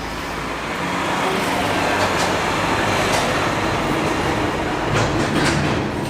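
A train running at a station platform: a steady rumble that swells through the middle, with a few sharp clicks.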